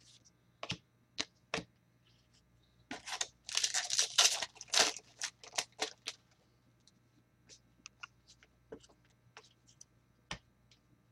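A trading-card pack wrapper torn open in a dense, noisy burst a few seconds in, between a few sharp clicks of cards being handled before it and light scattered clicks of cards being shuffled and sorted after it.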